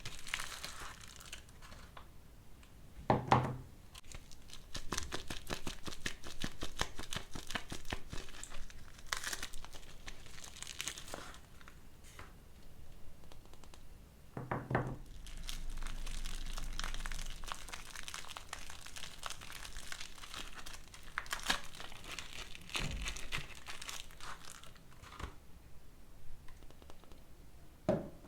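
Soap bar packaging being unwrapped by hand: wrapper crinkling and tearing in long runs of crackle, with a few dull thumps as bars are handled or set down.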